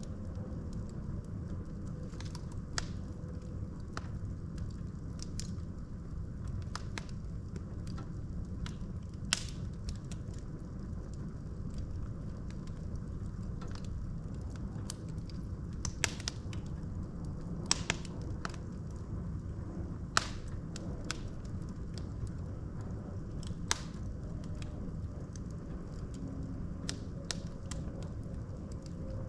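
Wood fire burning in a fireplace: a steady low rumble of flames with scattered crackles and a few louder sharp pops from the logs.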